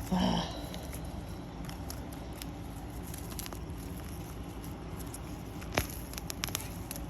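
Bare hands digging through garden soil for sweet potatoes: faint scratching with scattered crackles and clicks, a sharper click about six seconds in, followed by a few quick ones. A short breathy vocal sound at the very start.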